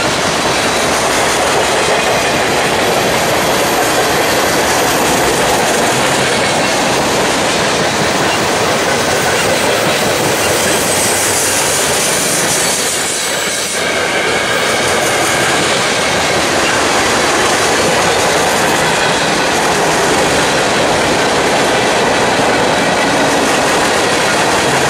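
Freight cars (covered hoppers and boxcars) of a passing freight train rolling by at close range: loud, steady noise of steel wheels running over the rails, with a brief stretch of higher-pitched hiss about ten to twelve seconds in.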